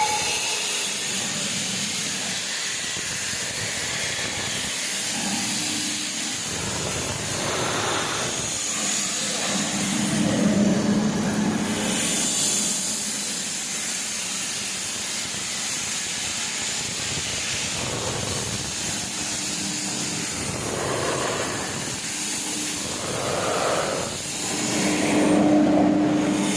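Steam locomotive hissing steadily as it vents steam, with a low hum that comes and goes and swells louder a couple of times.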